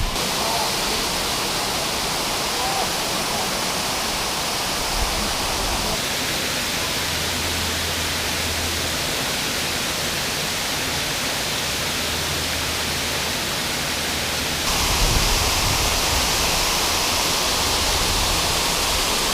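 Steady rush of falling water from the canyon's waterfall and creek. It steps up slightly in level about 15 seconds in.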